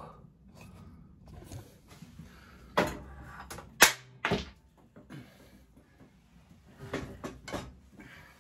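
Workshop knocks and clatters as tools and metal parts are picked up and set down: five or so sharp knocks, the loudest about four seconds in, with quiet gaps between.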